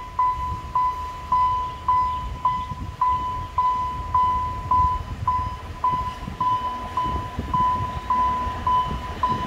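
Railway level crossing warning bell ringing with a steady, even ding, just under two strikes a second, signalling that a train is approaching.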